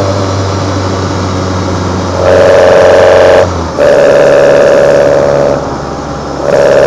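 Kadett GS 16v engine heard close to its Solex C40 ADDHE side-draft carburetors, the throttle opening and closing. Loud stretches of steady, high-pitched induction sound alternate with quieter spells off the throttle: one short dip in the middle and a longer one near the end.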